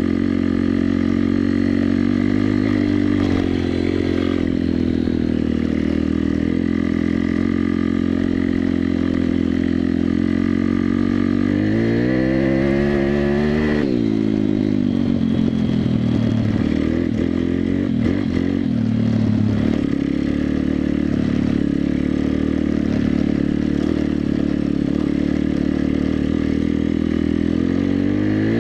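WPB 140 Race pit bike's four-stroke single-cylinder engine running under way, holding a steady pitch, then revving up about twelve seconds in before dropping off, and revving up again near the end.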